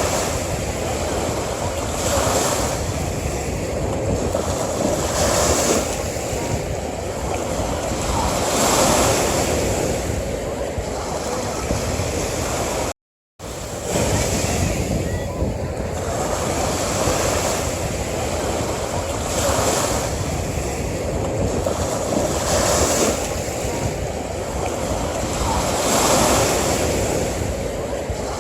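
Ocean surf washing onto a beach in a steady rush, swelling with a new wave every three seconds or so. The sound cuts out completely for about half a second near the middle, then resumes.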